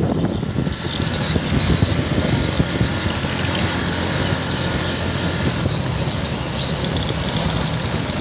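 Motorcycle running while being ridden along a road: steady engine and road noise.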